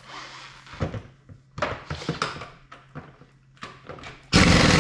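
Metal tools clinking and knocking against the engine, then near the end a sudden loud burst of rattling machine noise as a tool works at the 1991 Mitsubishi GTO's harmonic balancer to break it free.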